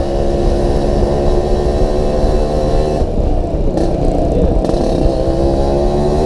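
Yamaha RX-King's 135 cc two-stroke single running under way, a steady engine drone that eases off and wavers for a moment about halfway through before steadying again. The rider calls its exhaust's jingling rattle severe.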